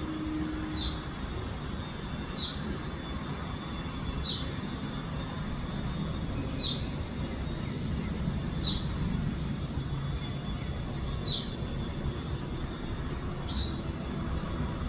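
A sparrow giving single short, falling chirps, seven in all, about one every two seconds, over a steady low rumble.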